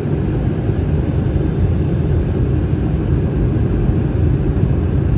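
Steady low rumble inside the cabin of an Airbus A319 from its CFM56 engines, with no distinct tones or knocks.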